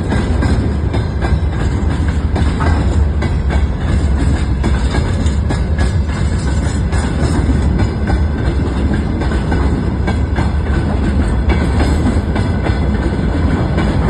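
A train passing close by: a loud, steady low rumble with the wheels clicking over the rail joints.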